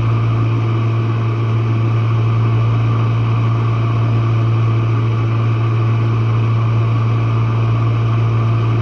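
Jenn-Air dishwasher running, heard from its bottom: a steady, loud motor hum with a few fainter steady whining tones above it, unchanging throughout.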